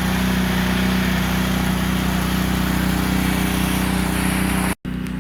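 Small petrol engine of a pressure washer running steadily, with a loud hiss of water spray. The sound cuts out for an instant near the end and comes back with less spray hiss.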